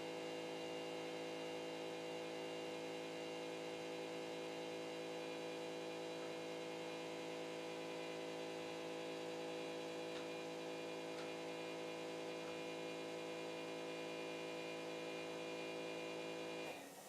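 Steady electrical hum of many tones from the CNC drawing machine's stepper motors and drive electronics; it cuts off suddenly near the end.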